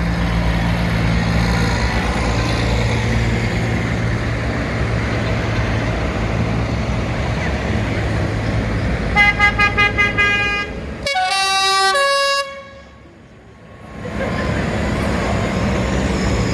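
Tractor diesel engines rumble steadily as they drive past. Over the rumble a horn gives about six quick toots, then a musical horn plays a run of notes falling in pitch. The sound then drops away briefly before the engines return.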